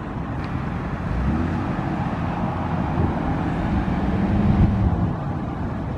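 MGB sports car's engine running as the car moves, its pitch rising and falling, loudest about four and a half seconds in.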